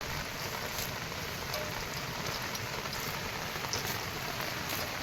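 Steady heavy monsoon rain falling, an even hiss with a few faint drip ticks through it.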